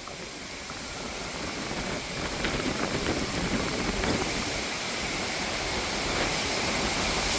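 Thunderstorm gust front arriving: gusting wind and oncoming rain make a rushing noise that grows steadily louder.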